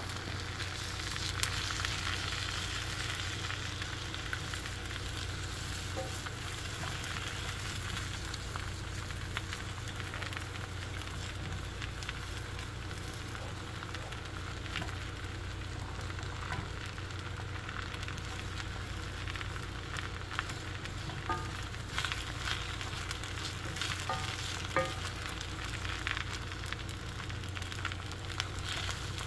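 Eggs frying in a hot HexClad pan alongside rice and onions, a steady sizzling hiss as they are scrambled, with a few light clicks of the tongs against the pan, several of them in the last third.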